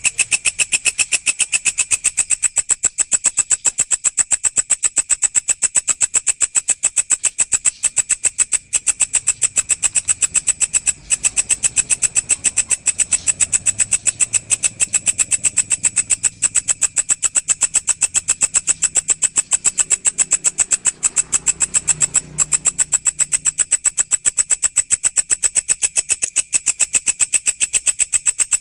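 A walang, an Indonesian singing grasshopper, calling in a fast, unbroken run of sharp, high-pitched chirring pulses at a steady rate.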